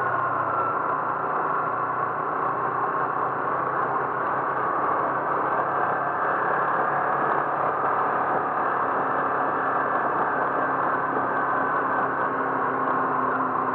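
A motor vehicle driving along: steady engine and road noise with a low engine hum, unchanging throughout.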